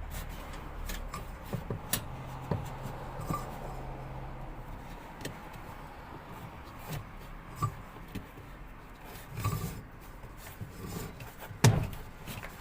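Scattered light clicks, knocks and rubbing of parts being handled while the drive belt is fitted onto a washing machine's gearbox pulley, with one louder knock near the end.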